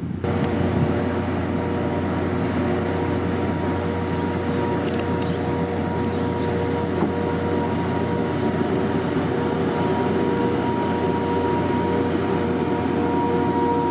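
A train running steadily, a dense rumble with several steady humming tones over it at an even level.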